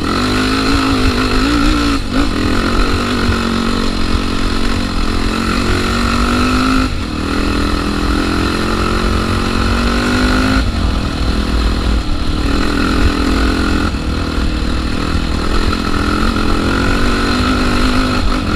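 Honda Tornado trail motorcycle's single-cylinder four-stroke engine pulling under load while riding, its pitch rising as it revs and dropping abruptly at each of about four gear changes.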